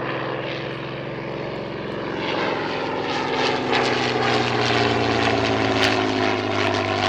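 Hawker Fury I biplane's Rolls-Royce Kestrel supercharged V12 piston engine running steadily in a flypast, growing louder from about two seconds in, its pitch sagging slightly as it passes.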